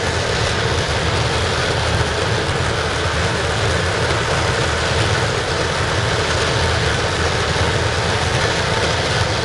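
Waste-oil burner firing a scrapping furnace with compressed air: a steady, loud rushing noise with a low rumble underneath, unchanging throughout.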